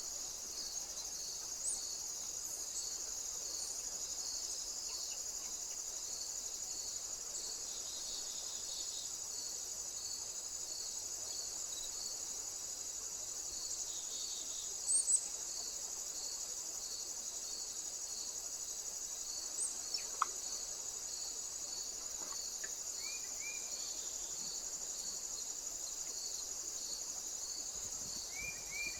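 Crickets singing: a steady high-pitched trill with a softer chirp repeating about once a second. A few brief high chirps break in now and then, the loudest about halfway through.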